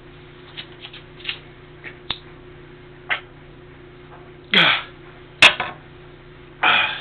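Breathy exhales and short hisses from a cold, shivering man, with a few small clicks over a steady low hum. Two louder exhales, about two-thirds of the way through and near the end, fall in pitch.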